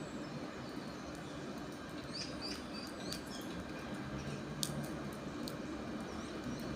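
A small bird chirps a few times about two to three seconds in, over a steady low hum and background noise. A few sharp clicks come later.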